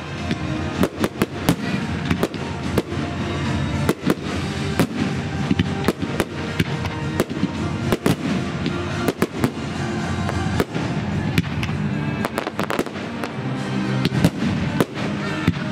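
Fireworks finale barrage: a dense, continuous run of sharp bangs and crackles, many bursts overlapping.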